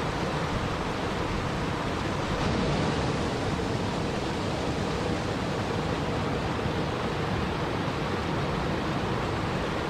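Steady rushing water noise, even and unbroken, swelling slightly about two and a half seconds in.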